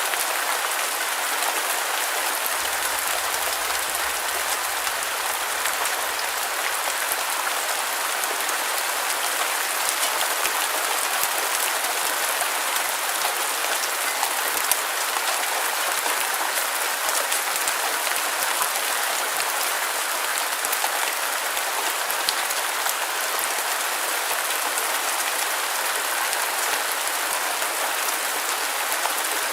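Steady rain falling on a surface, an even hiss with scattered small drop ticks and no deep rumble.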